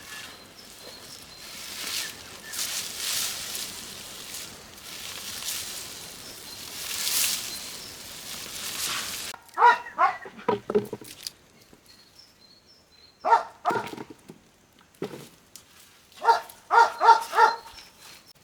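An animal calling in short, sharp, bark-like bursts: a few single calls, then a quick run of about five near the end. Before the calls, several seconds of rising and falling noise.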